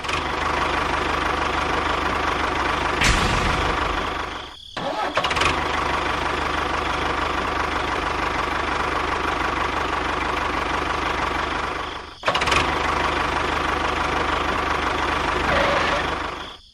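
A small engine running steadily, in three stretches broken by two short gaps, about five and twelve seconds in.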